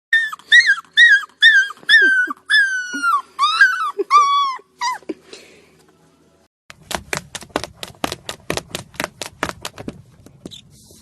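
Golden retriever puppy whimpering: a run of about a dozen short, high cries, about two a second, each rising and then falling. After a pause, a quick run of clicks, about five a second.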